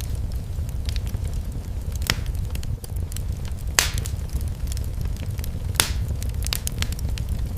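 Fireplace fire burning, with a steady low rumble of flames under irregular sharp crackling pops. The loudest pops come about two, four and six seconds in.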